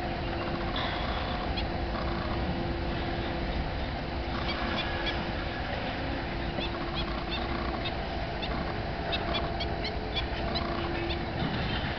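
Steady low background rumble with many short, high bird chirps scattered through, more of them in the second half, and a faint steady hum that comes and goes.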